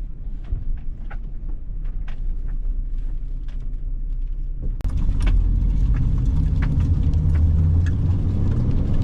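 Van cabin interior: steady engine and road rumble with small rattles and clicks. About halfway through, it turns abruptly louder and heavier.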